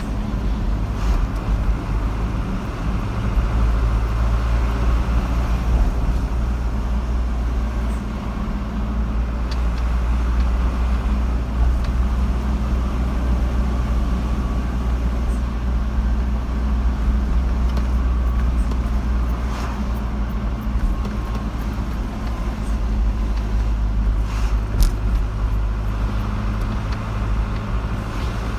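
A car driving along a road: a steady low engine and tyre rumble, with a few faint ticks.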